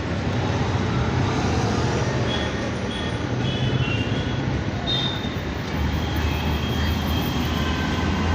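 Steady city street traffic noise, with a few short high tones a couple of seconds in.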